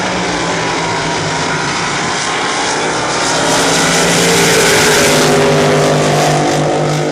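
Racing drag boat engines at full throttle during a side-by-side pass, the howl growing louder about three seconds in as the boats go by.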